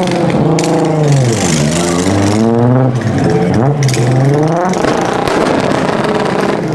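Car engine revving hard, its pitch sweeping up and down several times as the throttle is blipped and released.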